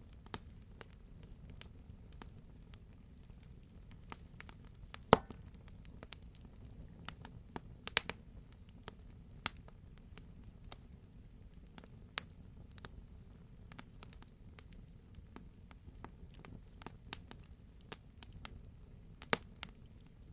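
Campfire burning: irregular sharp pops and snaps of burning logs over a steady low rumble. The loudest pop comes about five seconds in, and there are further strong pops near eight seconds and near the end.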